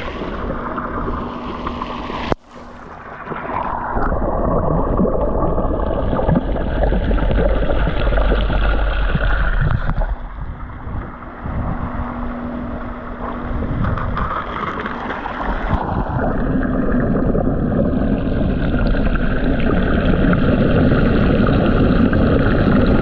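Water rushing and gurgling with wind on the microphone over a steady low motor hum. The sound cuts out sharply for a moment about two seconds in.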